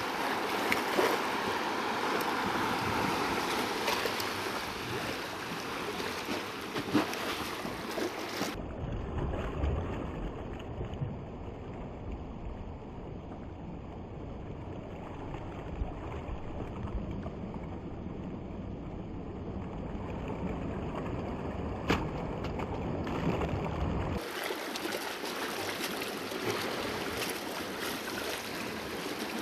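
Sea waves washing against rocks, with wind on the microphone. From about eight seconds in the sound turns dull and deep for about sixteen seconds, then turns bright again.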